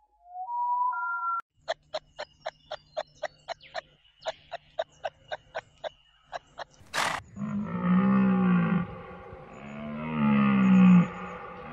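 A run of clips from an animal-sound compilation. It opens with short rising beeps, then a fast series of about twenty sharp clicking pulses. It ends with two long, deep animal roars, each about a second and a half, rising and falling in pitch.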